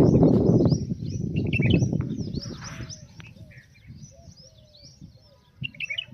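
Several small birds chirping over and over, with a loud low rumbling noise in the first second that fades away.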